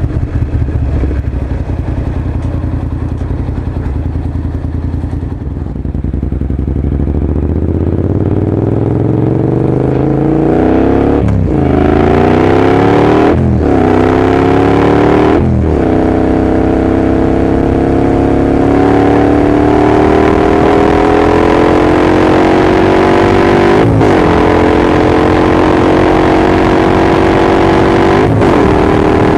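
Honda NC700S parallel-twin engine through an aftermarket Leo Vince carbon exhaust, accelerating through the gears. The engine note climbs in pitch, broken by three quick gear changes between about 11 and 16 seconds in, then rises steadily with two more changes near the end.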